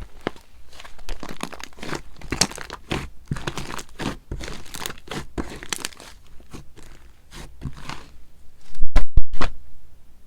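Sherbet-texture slime being squeezed and pressed by hand, giving off a dense, irregular crackling and crunching, with a few louder sharp snaps about nine seconds in.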